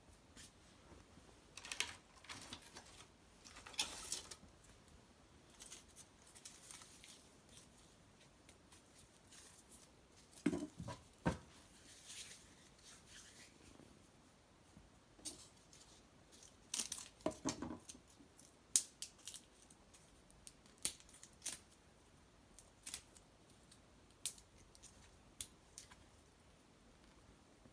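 A cedar-wood fire of branches and bark in a sunken hearth, crackling and snapping irregularly. Scattered sharp pops come through it, and a few longer rustling, tearing crackles come about two, four, ten and seventeen seconds in.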